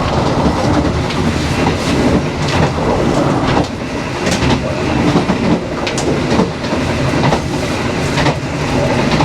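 Dharmawangsa passenger train running at speed: a steady rumble of wheels on the track, with sharp clicks about once a second as the wheels pass over rail joints.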